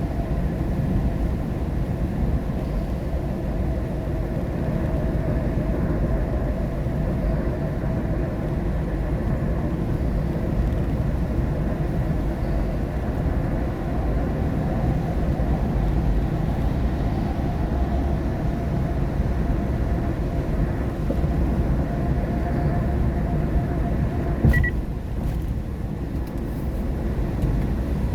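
Car cabin noise while driving in the rain: a steady low rumble of engine and tyres on a wet road, with a faint hum. A brief click about 24 seconds in.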